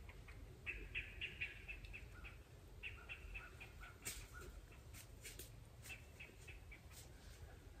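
A bird calling faintly: a rapid chattering series of short notes, then a second series that steps down in pitch. From about four seconds in, a scatter of sharp dry crackles.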